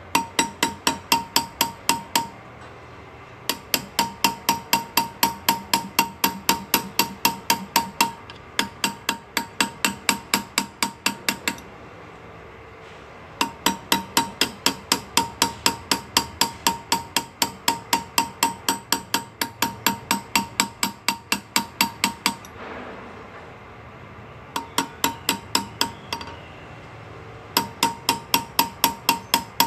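Hand engraving with hammer and graver on metal: rapid, even taps of a small chasing hammer on the chisel, about five a second, each with a bright metallic ring. The tapping comes in runs of a few seconds broken by short pauses.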